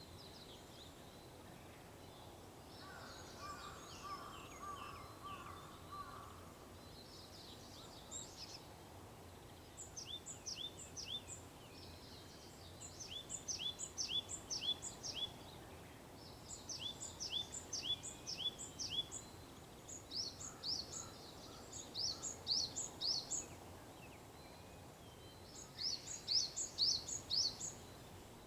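Wild songbirds singing at dawn over a faint steady outdoor hiss: repeated bursts of quick, high, down-slurring notes, about five to a phrase, coming every few seconds and growing denser later on. A lower, louder trill sounds a few seconds in.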